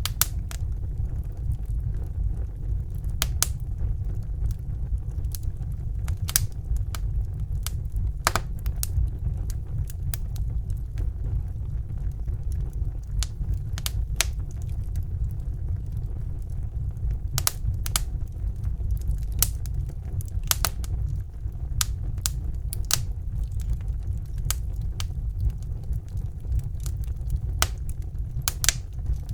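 Wood fire burning in a fireplace: a steady low rumble of the flames with scattered sharp crackles and pops at irregular intervals.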